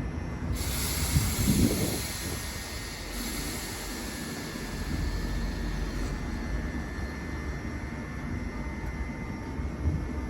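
Train running on the line through the station: a steady low rumble with hiss that comes in suddenly about half a second in, and a few low thumps about a second and a half in.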